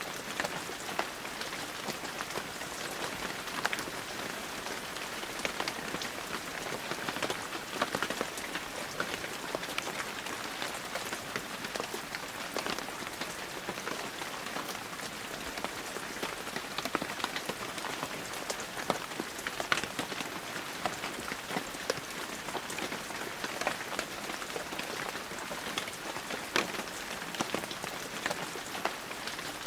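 Heavy, steady rain with many distinct drops ticking sharply on near surfaces.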